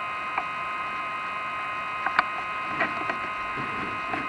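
Chimney inspection camera on rods working through a masonry flue: a few scattered light clicks and taps as the head and rods knock against the brick and tile, over a steady electronic whine.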